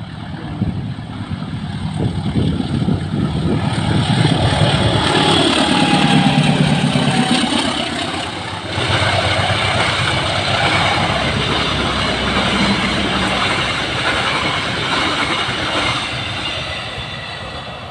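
Diesel locomotive of a passenger train passing close by, its engine rumble swelling and dropping in pitch as it goes past. About nine seconds in the sound changes abruptly to the steady rolling rumble of the passenger carriages on the rails, easing off near the end.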